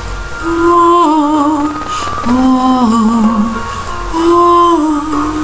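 Woman singing the slow lullaby melody in three long, held phrases with vibrato, over soft musical accompaniment.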